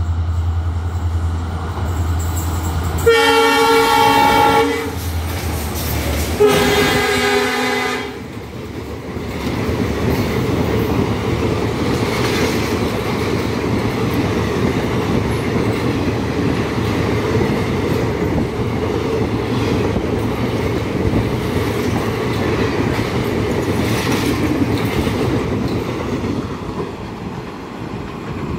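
Two blasts of a train horn, each about a second and a half long, then a fast passenger express rushing past with steady wheel clatter and rumble on the rails.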